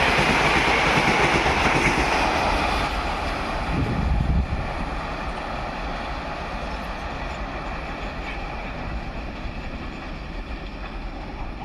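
Train running at speed on Indian Railways track, its wheel-and-rail noise loudest at the start and dying away gradually as it draws off.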